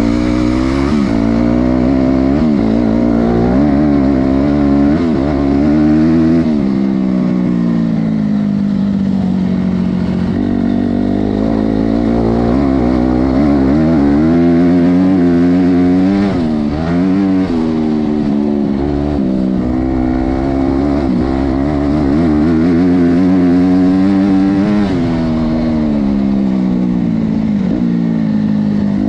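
Honda CRF250R's four-stroke single-cylinder engine revving hard while the dirt bike is ridden. The pitch climbs and drops again every few seconds, with longer falls about ten, seventeen and twenty-five seconds in.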